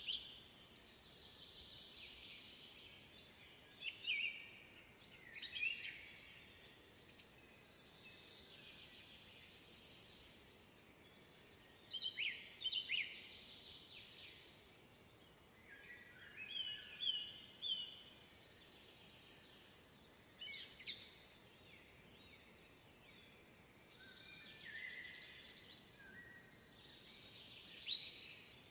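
Several songbirds singing in a spring woodland, short phrases of chirps and trills coming every few seconds over a quiet background.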